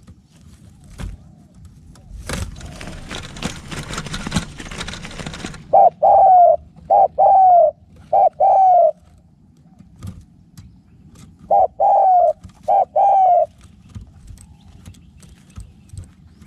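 Spotted dove cooing in two phrases of several coos each, the first about six seconds in and the second about twelve seconds in; each coo is a short note followed by longer, slightly falling ones. Before them comes a few seconds of rustling noise.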